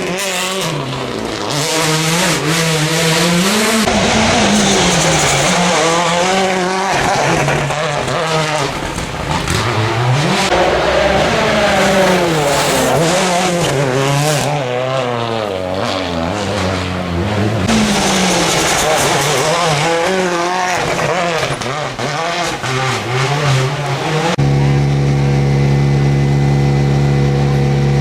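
World Rally Cars' turbocharged 1.6-litre four-cylinder engines revving hard, the pitch climbing and dropping over and over as they shift through the gears and pass. About 24 seconds in, the sound turns into a steady, unchanging engine note.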